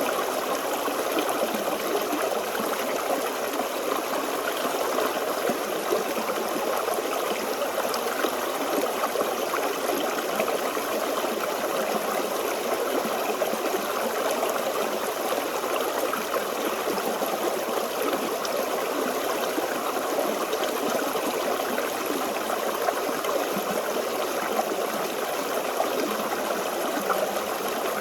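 Forest stream flowing and babbling over rocks, a steady rush of water.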